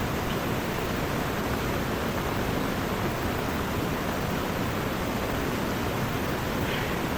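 Heavy rain pouring steadily together with the rush of a swollen river, one continuous even hiss with no breaks.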